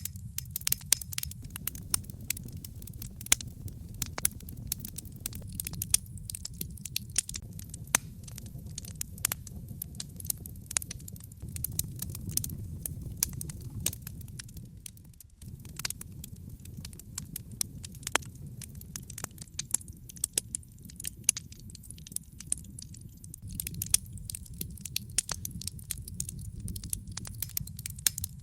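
Wood logs burning in a fireplace, crackling with many irregular sharp pops over a steady low rumble. The sound dips briefly about halfway through.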